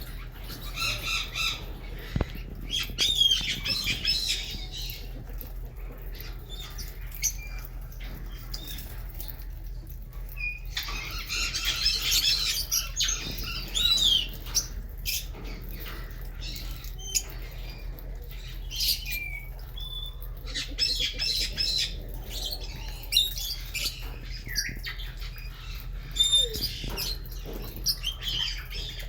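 A colony of lovebirds chattering and squawking in bursts of high chirping calls, with a few sharp clicks among them. A steady low hum runs underneath.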